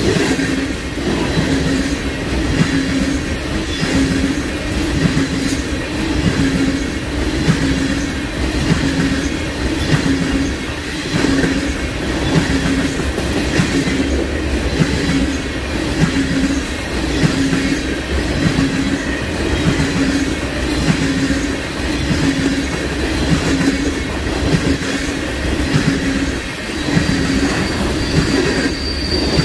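Freight train cars rolling past close by: a steady rumble with a rhythmic wheel clatter about once a second. A thin, high wheel squeal starts near the end.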